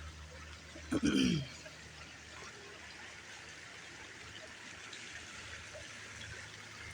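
Water trickling steadily, with one short voice-like sound about a second in that falls in pitch.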